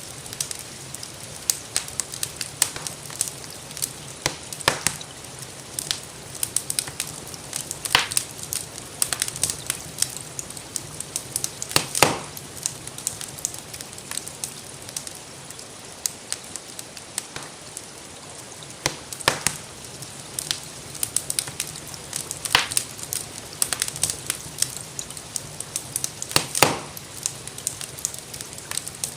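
Wood fire crackling in a fireplace: many small irregular snaps and a few louder pops, over a steady soft hiss of rainfall.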